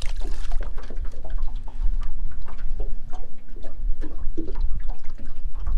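Wind buffeting the microphone in a heavy, gusting low rumble, with scattered small knocks and clicks. A faint steady hum comes in about two seconds in and fades about two seconds later.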